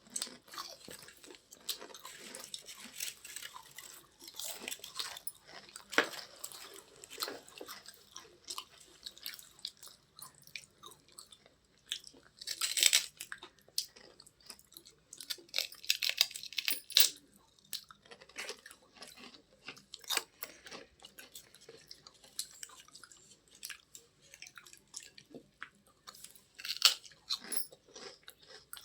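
Close-up crunching and chewing of crunchy white chips, an irregular run of sharp crackling crunches with louder bouts about halfway through and again near the end.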